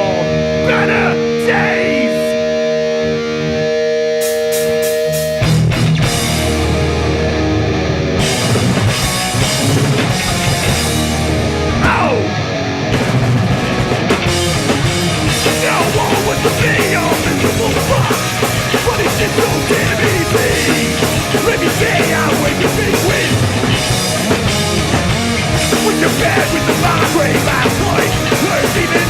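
Hardcore punk band playing live: a guitar alone lets held notes ring out, then about five seconds in the full band crashes in with distorted guitars, bass and drum kit and plays on steadily.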